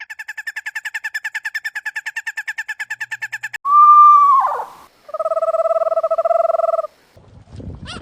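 Bird calls, one after another: a rapid run of about ten short notes a second for three and a half seconds, then a loud whistle that drops steeply in pitch, then a held, wavering note lasting nearly two seconds.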